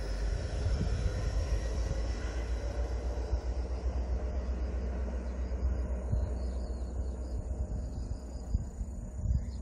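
Mugunghwa-ho passenger train running away along the track, its rumble and wheel noise thinning out about halfway through as it recedes, over a steady low rumble. Insects buzz steadily in the background.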